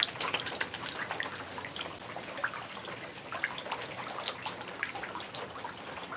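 Rain falling: a scatter of many irregular drop hits over a faint hiss.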